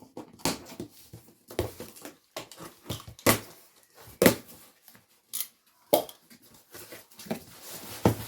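A parcel being opened by hand: a run of irregular tearing, crinkling and knocking sounds from the packaging.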